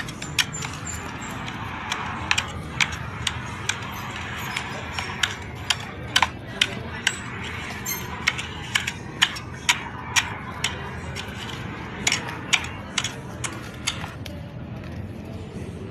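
A hand tool working dry soil: irregular sharp clicks and knocks, about one or two a second, over a steady background hiss.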